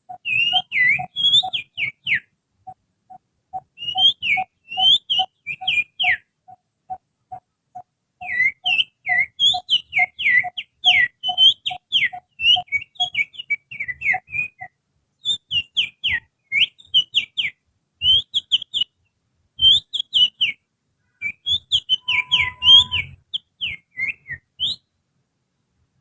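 Finger whistling imitating the song of an oriental magpie-robin (kacer): phrases of quick, sharp sweeping notes, broken by short pauses. A steady lower peep repeats about three times a second under the first half.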